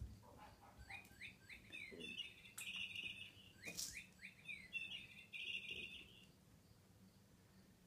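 Faint bird-like chirping: two matching phrases, each a run of quick rising chirps ending in a buzzy trill, with a couple of light knocks among them.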